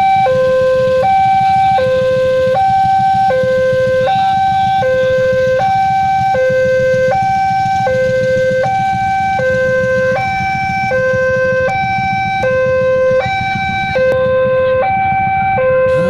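Two-tone electronic warning signal switching steadily between a high and a low note about every 0.8 s, over a steady low rumble.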